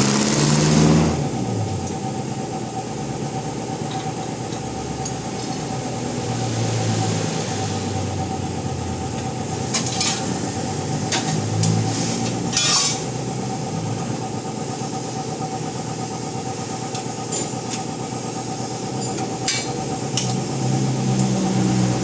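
Toyota Innova engine running steadily at idle, with a few sharp clicks or taps now and then.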